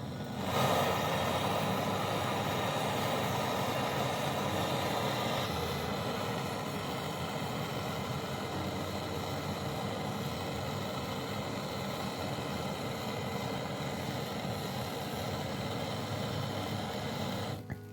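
A motor running steadily, starting suddenly and cutting off just before the end, a little quieter after about five seconds.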